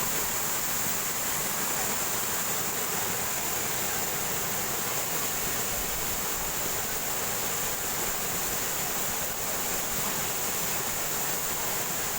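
Waterfall: a steady, unbroken rush of water falling and cascading over rock.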